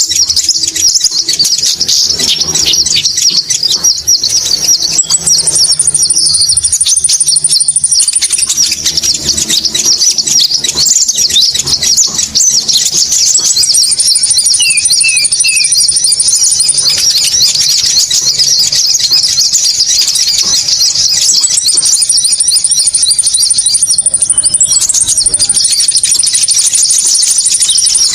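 Bird-lure recording of Konin birds calling: a loud, dense, unbroken high-pitched chittering. A thin, steady, very high whistle joins it at several points.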